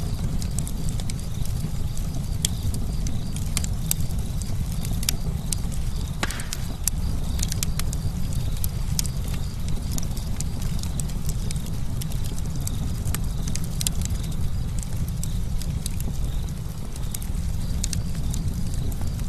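Campfire burning, a steady low rumble under many sharp, irregular crackles and pops of burning wood, with a brief hiss about six seconds in.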